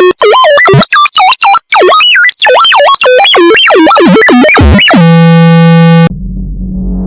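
Loud electronic tones swooping rapidly up and down in pitch, then a steady harsh buzz about five seconds in that cuts off suddenly, giving way to a quieter low, rough, distorted sound.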